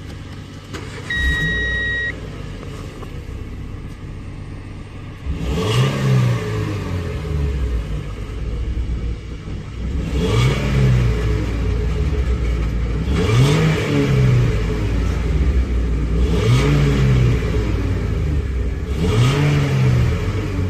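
Renault Modus's 1.4-litre 16-valve K4J petrol four-cylinder running, revved briefly five times about three seconds apart from about five seconds in, the pitch rising and falling back to idle each time. A short electronic beep sounds about a second in.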